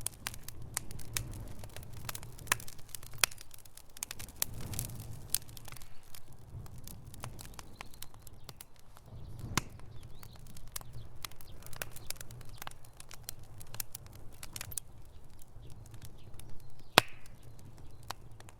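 Wood fire crackling in a fireplace: irregular pops and snaps over a steady low rumble of the flames, with one sharper pop near the end.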